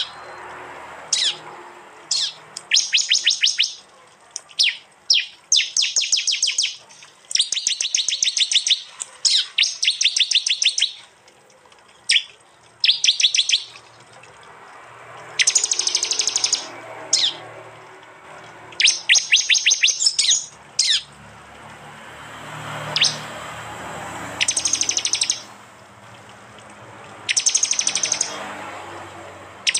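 Prinias (prenjak) singing: loud, high bursts of rapidly repeated sharp notes, each lasting about a second, coming over and over with short pauses and a few single sharp down-slurred notes between them.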